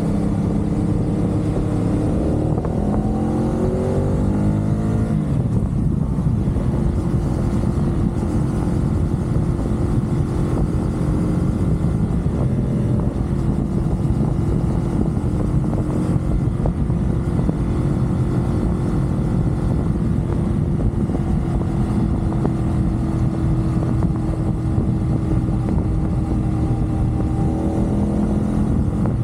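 CFMOTO 450SR parallel-twin sport bike engine heard on board at expressway speed: it climbs in pitch a few seconds in, then holds a steady note under loud wind and road rush, and climbs again near the end.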